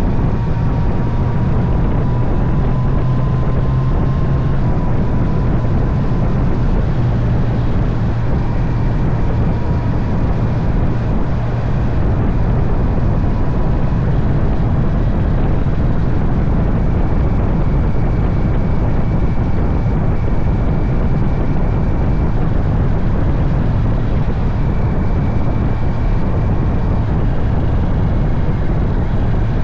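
Honda CB650R's inline-four engine running at a fairly steady cruise, with wind and road noise from riding.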